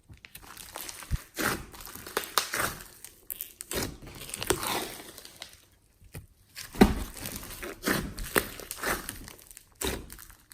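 Slime being squished, stretched and kneaded by hand, giving irregular sticky pops, clicks and crackles, with a short lull about six seconds in.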